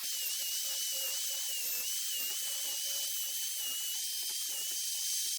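High-speed rotary tool, such as a die grinder, running under load while cleaning a VK50VE cylinder head, with a high whine that wavers slightly in pitch over a hiss. It stops abruptly at the end.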